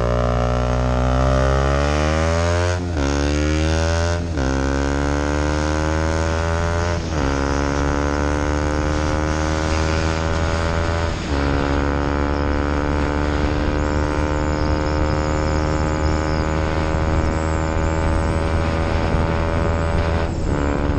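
KTM Duke 125's single-cylinder four-stroke engine accelerating up through the gears. Its pitch climbs and drops back at each of four upshifts in the first eleven seconds, then holds steady at cruising speed, with one more brief break near the end.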